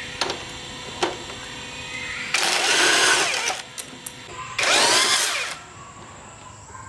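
A handheld power tool, such as a drill or driver, runs in two short bursts of about a second each, its pitch sweeping up and down. A couple of light knocks come before them.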